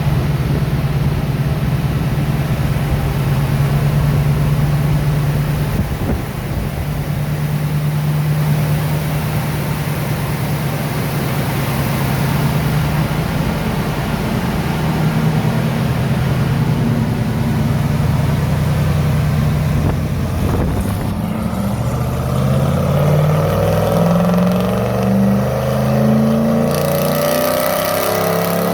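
GM LS-series V8, swapped into a Nissan Patrol Y61 and run by a FuelTech FT550 ECU with an electronic throttle body, idling steadily. About 21 seconds in it is revved, the pitch climbing in steps toward the end.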